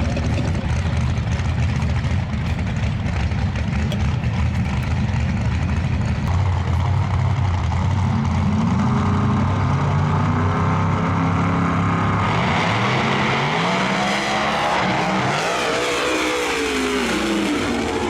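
Two no prep drag cars, one of them a twin-turbo Chevrolet Nova, running side by side. Their engines idle lumpily on the line, and about six seconds in the cars launch. The engine pitch climbs in steps through the gears, then a broad rush with sweeping pitch takes over as they run away down the track.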